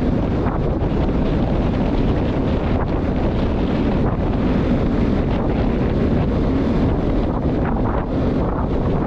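Steady wind buffeting the microphone, a loud low rumble with no let-up.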